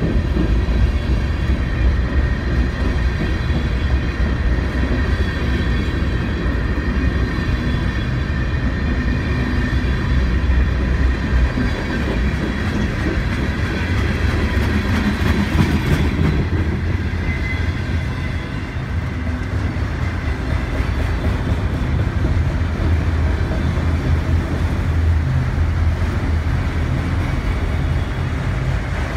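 CN freight train's cars rolling past close by: a steady heavy rumble of steel wheels on the rails, with thin high ringing tones over it.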